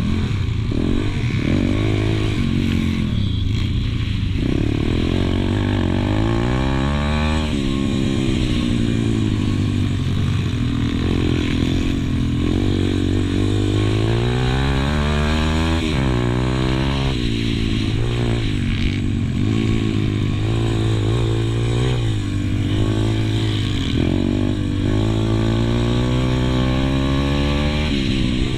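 Pit bike's single-cylinder four-stroke engine heard on board during a race, its revs repeatedly climbing hard and dropping back as the rider opens and shuts the throttle.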